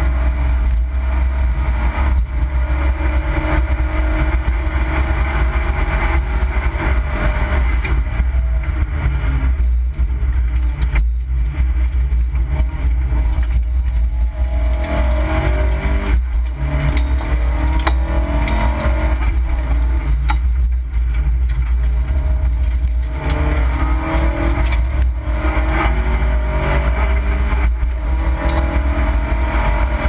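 Opel Corsa B rally car's engine, heard from inside the cabin, revving hard. Its pitch climbs and falls repeatedly and the sound drops briefly several times, over a heavy low rumble.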